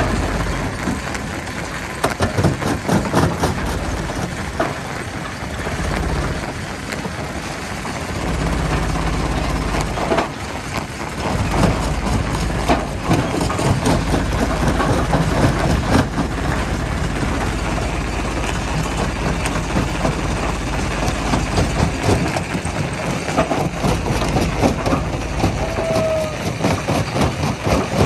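Heavy diesel machinery running steadily, with frequent knocks and clatter of rock over the top.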